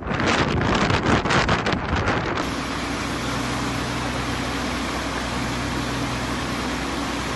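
Gusty wind buffeting the microphone, which cuts off abruptly a little over two seconds in and gives way to a steady, even rumble with a low hum.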